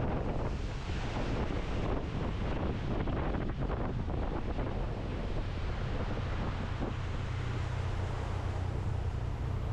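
Wind rushing over the microphone of a moving motorbike, over a steady low engine drone.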